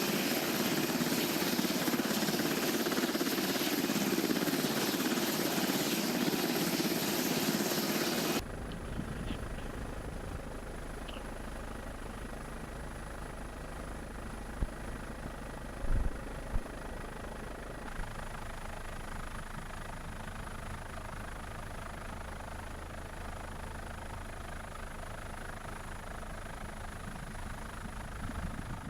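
Loud steady machine noise that cuts off abruptly about eight seconds in, giving way to a quieter low rumble with a thin steady high whine and a few dull knocks near the middle.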